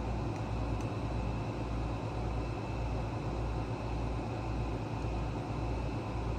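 Steady background machine hum with a low throb pulsing about twice a second, like a running fan or shop heater.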